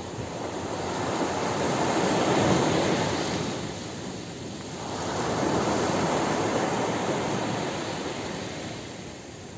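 Ocean surf breaking on a beach: two waves swell and wash in, the first peaking about two and a half seconds in, the second about six seconds in, easing off near the end.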